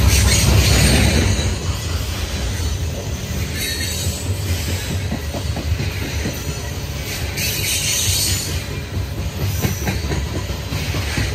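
CSX coal train's hopper cars rolling past close by: a steady, heavy rumble of wheels on rail, with brief bursts of high wheel squeal several times.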